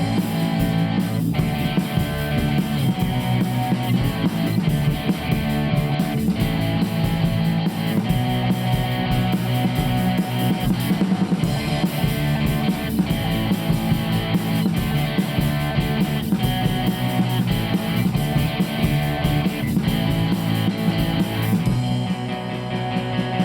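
Instrumental rock passage with guitar and a drum kit keeping a steady beat, no vocals. The band eases off briefly near the end.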